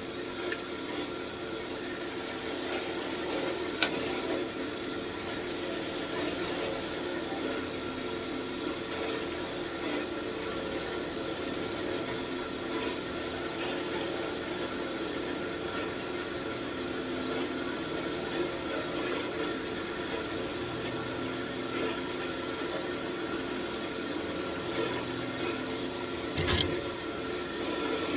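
Wood lathe running steadily with a turning tool cutting a spinning walnut wand blank. There is a sharp click about four seconds in and a louder knock near the end.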